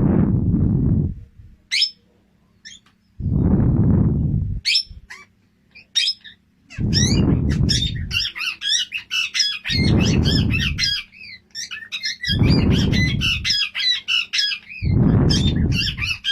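A small pet parrot chirping and chattering in quick, high squeaky notes that grow busier and almost continuous in the second half. Six loud, low rushing bursts, each about a second long, come every two to three seconds.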